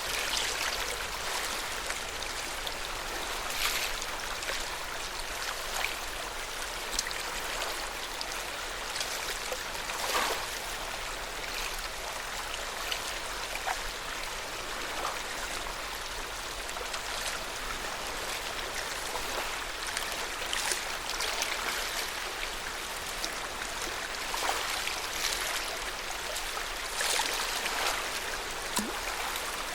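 Lake water lapping gently at the shore: a steady wash with small splashes every second or two.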